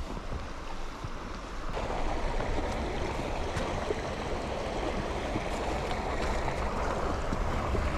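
Steady rushing road and wind noise of a vehicle on the move, rising a step in loudness about two seconds in.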